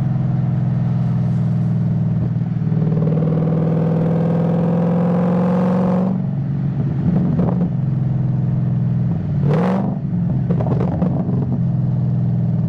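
Ford Mustang GT S197 V8 under way: the engine's pitch climbs steadily for a few seconds as it pulls through a gear, then drops off suddenly as the throttle is lifted about six seconds in. A quick rising rev with a sharp noise comes near ten seconds, then the engine settles into a steady drone.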